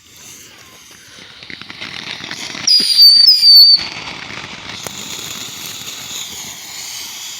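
A lit ground firework hissing as it burns, the hiss swelling over the first few seconds. About three seconds in it is at its loudest and gives two short whistles, each falling slightly in pitch, then settles into a steady spraying hiss.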